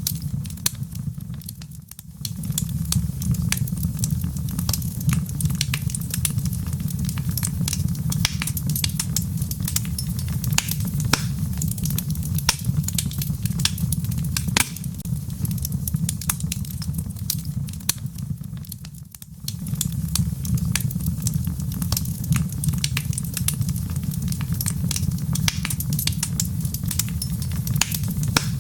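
Wood fire in a fireplace crackling with dense sharp pops and snaps over a steady low rumble, with rain pattering. The sound dips briefly twice, about two seconds in and again about nineteen seconds in.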